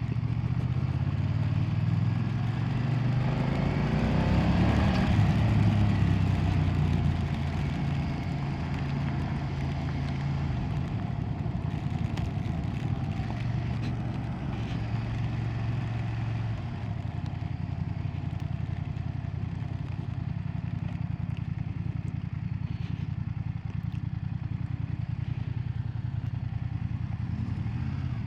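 BMW F900R's 895cc parallel-twin engine running on the move, a steady low drone that swells louder for a few seconds near the start before settling.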